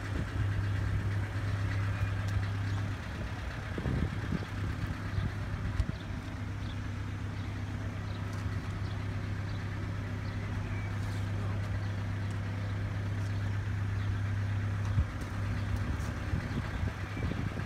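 A diesel engine running steadily with a low, even hum, under wind noise.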